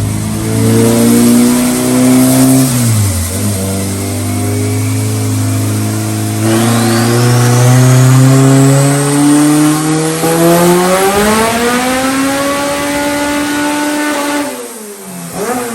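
Car engine revving hard under load in one long pull: its pitch climbs steadily, dips briefly about three seconds in, climbs again to a peak near the end, then the throttle shuts and the revs fall away. A high whine rises alongside the engine for a few seconds mid-pull.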